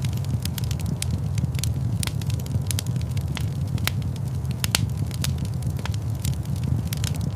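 Wood fire crackling in a fireplace: a steady low roar of the flames with frequent sharp, irregular pops and snaps.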